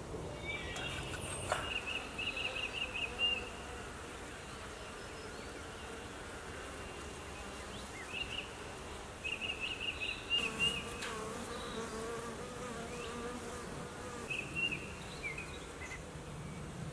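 Honeybees buzzing around their hives as a steady hum. A high, rapid chirping trill stands out over it three times.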